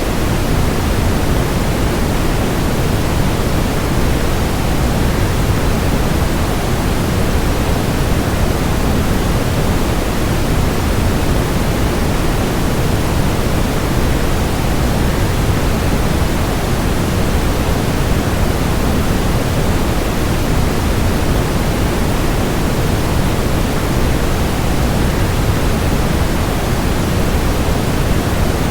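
Waterfall rushing, a steady, even, deep noise that never changes, played as sleep white noise.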